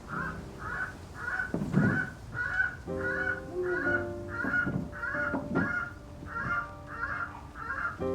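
A bird calling in a steady, even series of short calls, about two a second, over soft background music.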